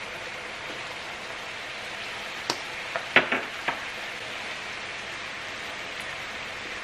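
Minced meat and onions sizzling steadily in a frying pan, with a few sharp clicks and knocks between about two and a half and four seconds in.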